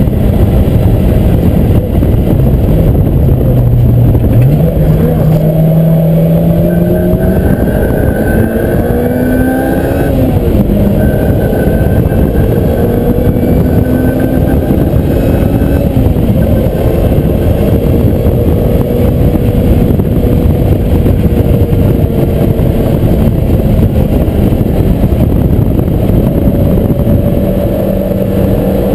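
Lotus Exige's engine running hard on a race track, heard from inside the cabin under heavy wind and road noise. The revs climb over the first ten seconds, fall back about ten seconds in, then hold fairly steady.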